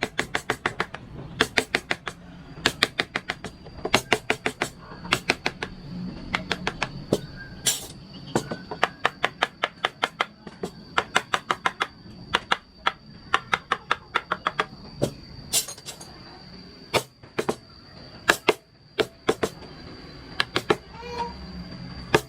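Wooden mallet tapping a carving chisel into wood in quick runs of sharp taps, several a second with short pauses between, the taps growing sparser near the end.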